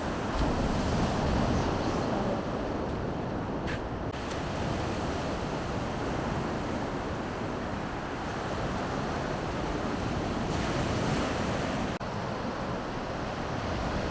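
Baltic Sea surf washing steadily onto the shore, a continuous rush of waves with low wind rumble on the microphone.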